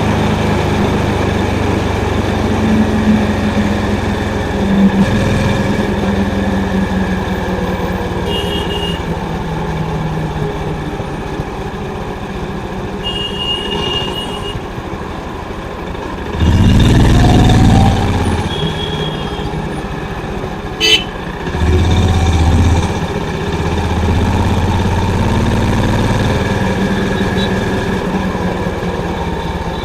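Honda CB350's single-cylinder engine and exhaust running steadily under way on the road. A horn beeps briefly twice, and twice there is a short, louder surge of low rumble.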